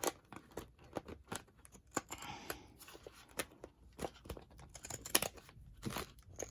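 Scissors cutting faux leather in a run of short snips, with a brief rasping stretch about two seconds in.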